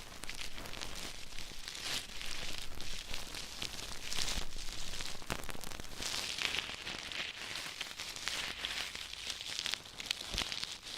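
Ear-cleaning tools scratching and rubbing close on a microphone, a dense crackling with louder swells every second or two.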